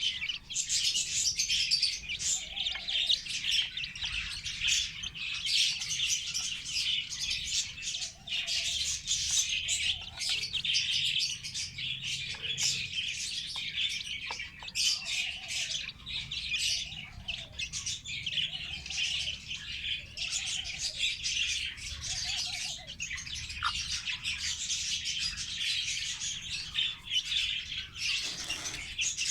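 A brood of chicks peeping continuously in a dense, overlapping chorus of high chirps. From about eight seconds in until about twenty-three seconds, a lower, short call repeats about once a second beneath them.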